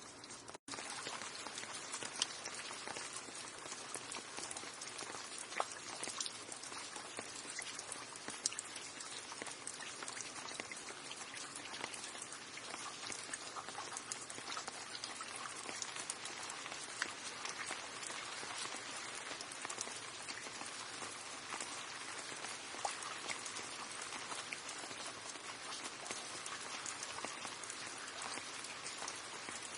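Steady rain falling, an even hiss with individual drops ticking sharply now and then. The sound cuts out for an instant about half a second in.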